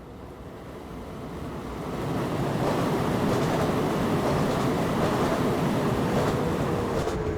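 Loud rushing noise of a moving train heard from inside the cab, swelling over the first two seconds, holding steady, then dropping off sharply near the end.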